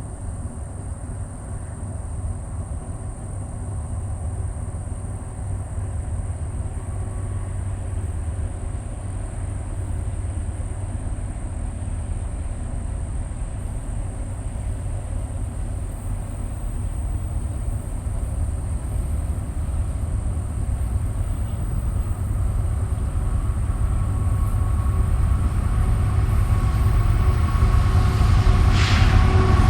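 Canadian National freight train approaching: the diesel locomotives' low rumble grows steadily louder, with a sharp click near the end.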